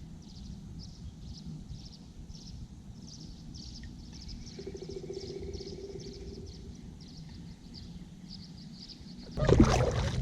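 An animal calling outdoors: short high chirps repeated steadily, about three a second, over a low rumble. A steady mid-pitched hum is heard for a few seconds in the middle. Near the end a sudden loud burst of knocking and rustling cuts in.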